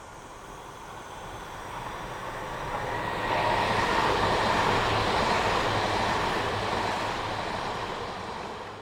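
Yamagata Shinkansen train passing by: a rushing rail noise that builds over the first few seconds, stays loud for about four seconds, then fades quickly near the end.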